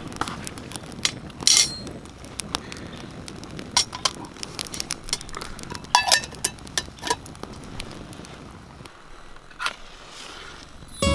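Small hard objects being handled: scattered clicks, knocks and metallic clinks, with one ringing clink about six seconds in.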